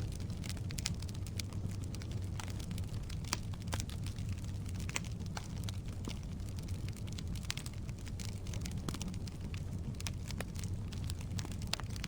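Firewood burning in a fireplace: a steady low rumble of the flames with frequent irregular sharp crackles and pops from the logs.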